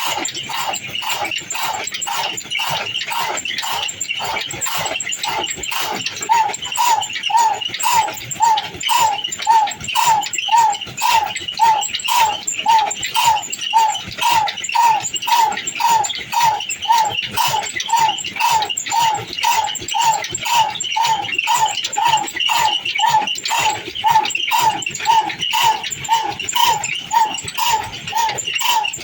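Old stationary diesel engine running with an even, regular knocking beat. About six seconds in, a repeating high squeak joins it, close to twice a second.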